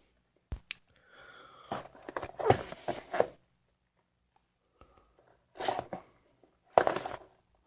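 Packaging being handled: plastic and paper rustling and crinkling in irregular short bursts, with a couple of sharp clicks about half a second in.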